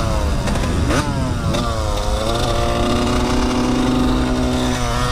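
Dirt bike engine under way, its pitch dropping and climbing with the throttle in the first two seconds, then held steady for the rest.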